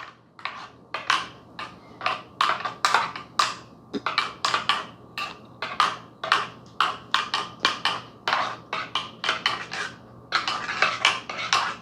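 A metal spoon stirring in a large mug, scraping and clinking against its sides in quick strokes, about two a second.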